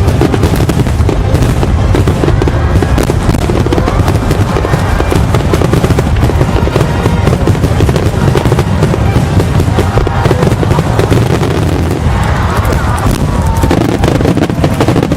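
A fireworks barrage: many shells bursting and crackling in quick overlapping succession over a continuous low rumble, with music playing along.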